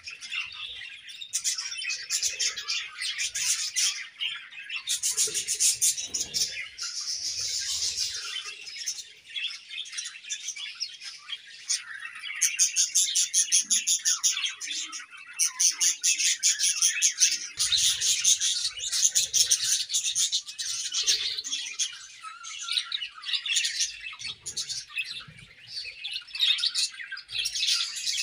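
A colony of budgerigars chirping together: many overlapping high chirps and fast warbling trills with no pauses.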